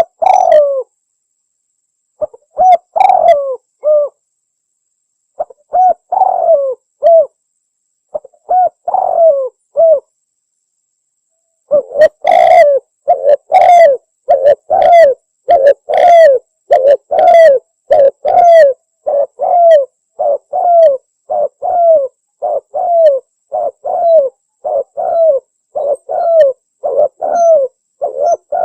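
Spotted dove cooing. The first part is short phrases of a few coos with pauses between them. From about twelve seconds in, the coos run on without a break, about three every two seconds.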